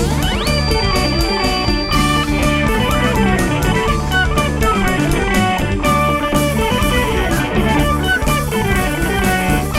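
Live rock band playing an instrumental passage: an electric guitar leads over drum kit and bass, with a high note sliding up and held about half a second in.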